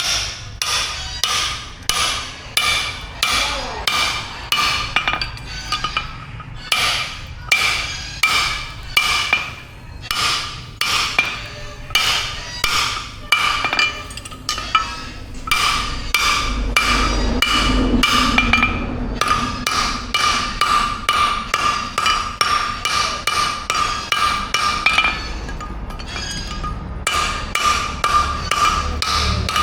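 Blacksmith's hammer striking steel on an anvil in a long, steady series of blows, about two to three a second, each with a ringing metallic tone.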